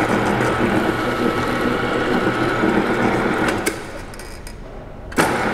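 Engine of an old Toyota Land Cruiser 40-series four-wheel drive running with a steady hum. It drops away about three and a half seconds in, then comes back loud near the end.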